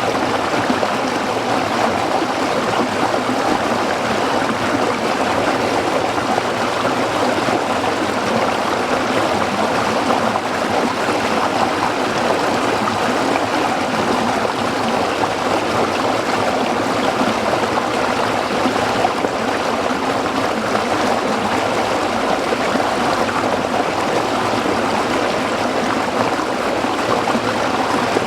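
A small stream flowing over rocks, a steady babbling and trickling of water.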